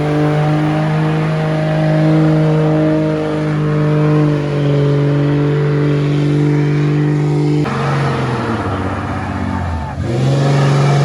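Diesel truck engine held at high revs, which drops off suddenly about seven and a half seconds in, winds down in pitch for a couple of seconds, then picks straight back up near the end.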